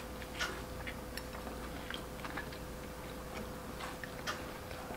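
Quiet chewing and small mouth clicks from people eating kunafa wrapped in bread: a scatter of soft ticks, two a little louder about half a second in and near the end, over a faint steady hum.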